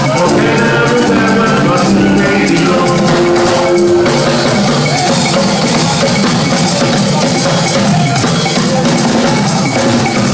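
Live band playing, with drums and hand percussion over sustained instrument tones.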